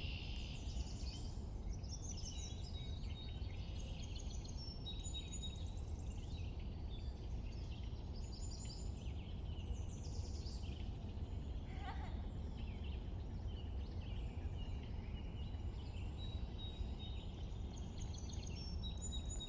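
Several songbirds chirping and trilling on and off, overlapping each other, over a steady low background rumble.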